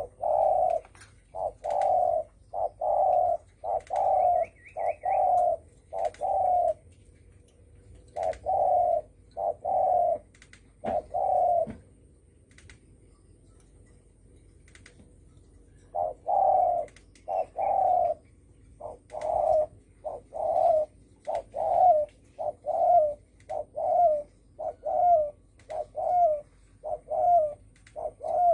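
Spotted dove cooing in the deep 'thổ sấm' style: runs of short, low coos, one to two a second, with a gap of a few seconds midway. A call of the kind played to lure wild doves.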